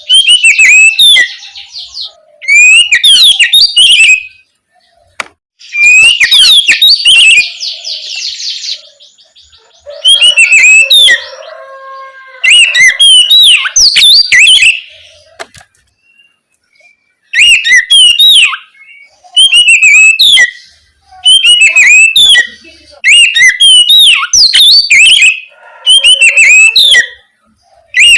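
Oriental magpie-robin (kacer) singing loud, varied whistled phrases in bursts of one to two seconds separated by short pauses, with a fast buzzy trill about six to nine seconds in.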